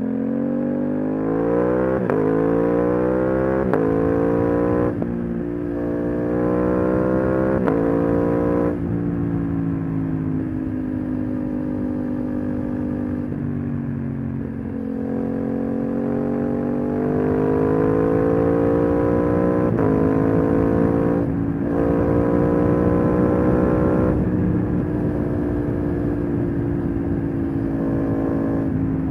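Aprilia RS 660's 659 cc parallel-twin engine running through an aftermarket SC1-R exhaust under acceleration. Its pitch climbs and drops sharply several times in the first nine seconds as it is shifted up through the gears with the quickshifter. It then settles into steadier cruising, with slow rises and falls in pitch and one brief cut about twenty-one seconds in.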